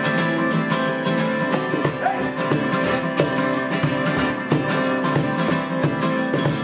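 Live rock band playing an instrumental passage between sung lines, with guitars strumming in a steady rhythm.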